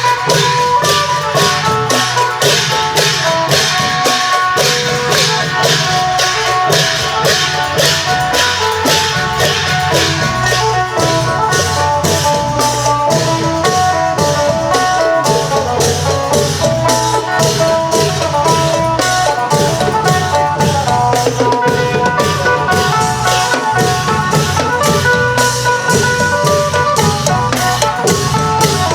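Isan klong yao long-drum ensemble playing a steady, even beat, with a phin lute carrying a plucked melody over the drums.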